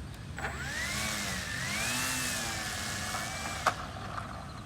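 Electric motor and propeller of an RC Cessna 150 model plane spinning up in a throttle check. The whine rises about half a second in, wavers in pitch for about three seconds, then stops, followed by a sharp click.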